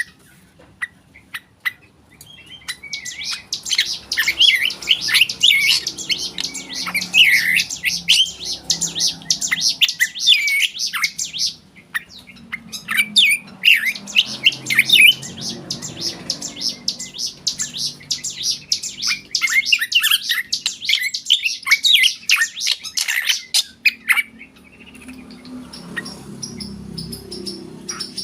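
Black drongo singing a rapid, varied run of chirps and whistles, breaking off briefly about twelve seconds in and growing softer near the end.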